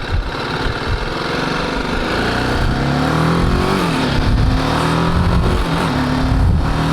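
BMW G310GS single-cylinder motorcycle engine under way, its pitch rising as it accelerates, dropping back about four seconds in, then holding steady.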